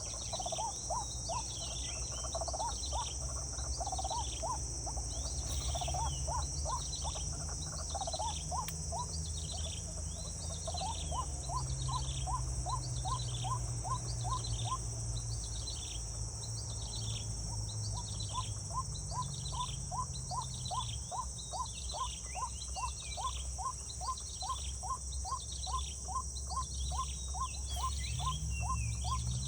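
Insects buzzing steadily, with a falling chirp repeated a little more than once a second and runs of fast ticks. Under them runs a low hum whose pitch steps up and down now and then.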